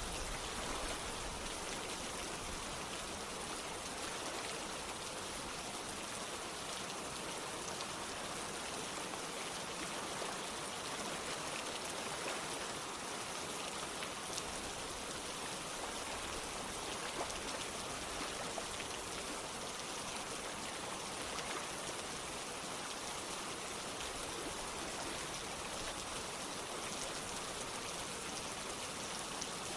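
Steady rain mixed with running water, a constant hiss with many small drops ticking through it and no change in level.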